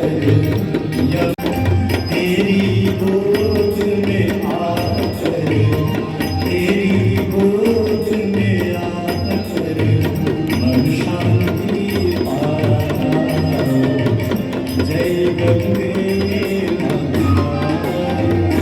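Hindu devotional aarti music: a sung melody over a steady, rhythmic drum beat.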